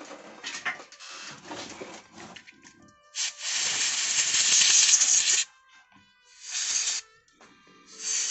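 Aerosol can spraying in three bursts, one of about two seconds and two short ones, with handling clicks and rustling before them.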